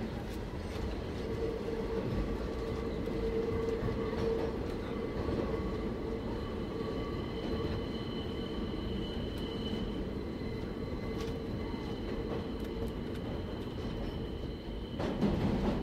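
Running noise heard from inside a Marunouchi Line 500 series subway car: a steady rumble with a few faint, steady high-pitched whines over it. About a second before the end, a louder, rougher noise sets in.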